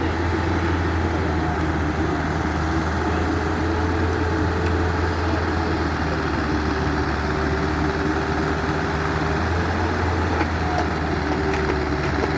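Excavator's diesel engine running steadily at a constant speed, with a faint whine that steps up slightly in pitch about halfway through.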